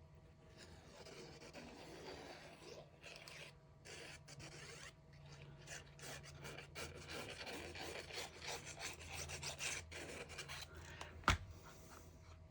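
Faint, irregular rubbing and scraping of paper pages being handled and pressed into place, with a single sharp tap near the end.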